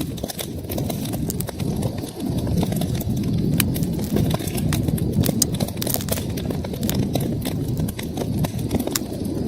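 Wood fire crackling: many irregular sharp pops and snaps over a steady low rumble of burning logs.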